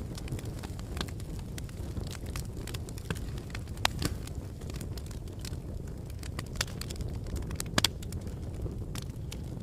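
Wood fire burning in a fireplace: irregular crackles and sharp pops over a low, steady rumble of the flames, with the loudest pops about four seconds in and a quick pair near the end.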